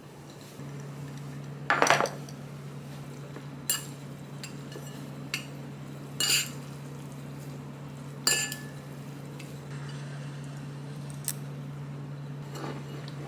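Dishes and cutlery clinking: a scatter of separate knocks and clinks of utensils against tableware, the loudest about two seconds in, over a steady low hum.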